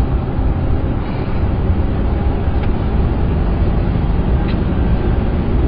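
Steady low rumble of a pickup truck driving at speed, heard from inside the cab, with engine and road noise and a couple of faint ticks.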